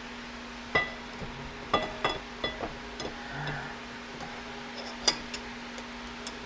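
Small metal parts clinking and briefly ringing as they are handled and set down, about six separate knocks, the sharpest about five seconds in, over a steady low hum.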